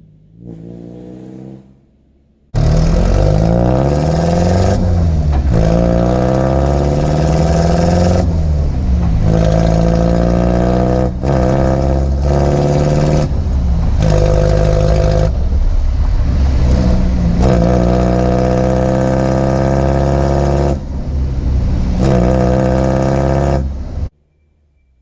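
Toyota HiLux 3.0-litre diesel engine through a homemade exhaust, revving: the pitch climbs and falls back again and again. It is quieter at first, then loud and close from about two and a half seconds in, and cuts off suddenly near the end.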